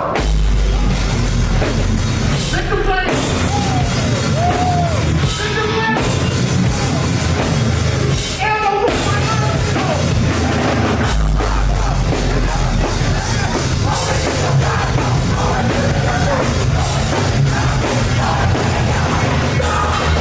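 Live rock band performing loudly, with heavy guitars and a drum kit, and shouted and sung vocals over the top.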